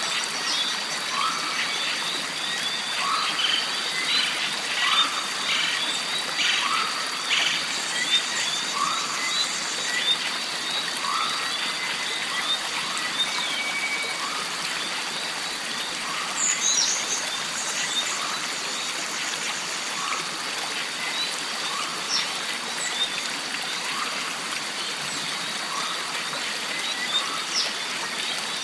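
Jungle stream ambience: water running steadily under a constant high insect drone. A short call repeats about every two seconds, with frequent small chirps and a few louder bird calls.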